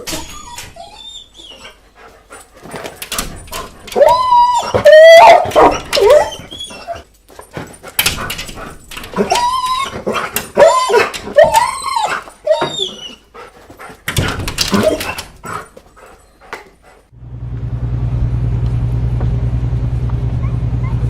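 A dog whining and crying in high, wavering glides broken by short yips. About seventeen seconds in, the whining stops and a steady low mechanical hum takes over.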